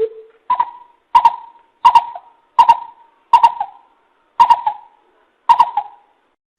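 Coucal calling: a series of hollow hooting notes, one lower note at the start, then seven higher notes evenly spaced at roughly one and a half per second.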